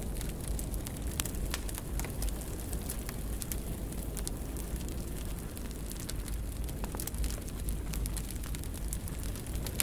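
Wood fire burning in a fireplace: a steady low rumble and hiss with scattered sharp crackles and pops throughout.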